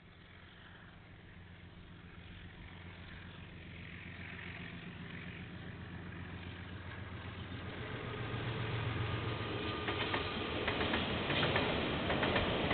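KiwiRail diesel train approaching: the locomotive's engine hum grows steadily louder. About ten seconds in, the wheels start clicking quickly over the rail joints.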